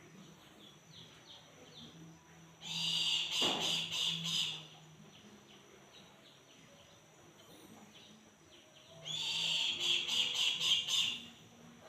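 Brahminy kite calling in two bouts of about two seconds each, high, quavering cries with a rapid pulse, the second bout near the end. The uploader takes the calls for the kite's hunger calls.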